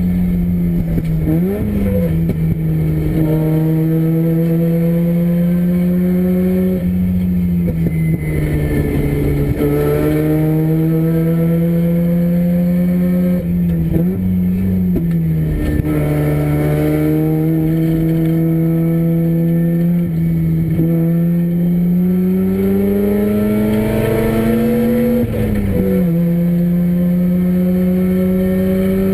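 Freshly rebuilt Mazda Renesis two-rotor rotary engine in a race car, run hard on a circuit. Its pitch climbs slowly and then drops back sharply several times as the driver lifts or shifts.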